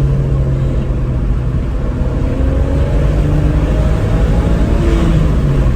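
BMW 335i's twin-turbo straight-six heard from inside the cabin, accelerating over a steady low road rumble, its pitch rising over a few seconds and falling near the end.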